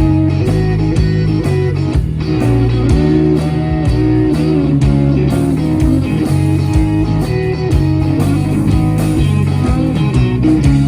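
Live blues-rock band playing an instrumental break: electric guitar leading over bass guitar and drums, with a steady beat.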